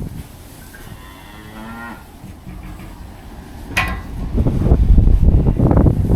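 A cow mooing once about a second in, a drawn-out call of about a second. Near the end, loud low rumbling of wind buffeting the microphone.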